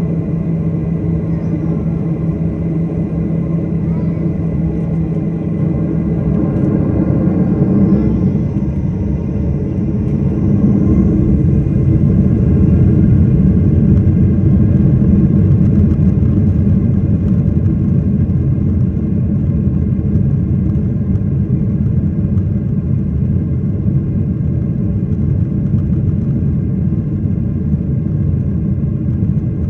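Airliner cabin noise: a steady low rumble of engines and airflow heard from inside the plane. A steady hum stops about six seconds in, and the rumble then grows louder and holds.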